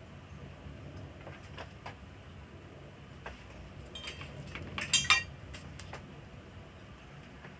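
Small metal objects clinking and tapping, a few light clicks and then a cluster about four to five seconds in, the loudest strike ringing briefly.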